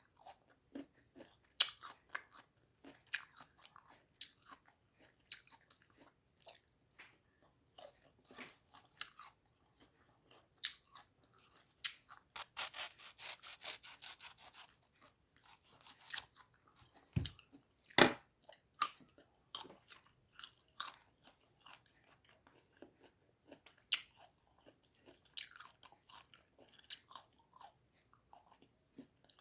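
Close-up crunching and chewing of a crisp, unripe mango: irregular sharp crunches between quieter chewing. A fast run of crunches comes about halfway through, and soon after there are two loud, sharp crunches.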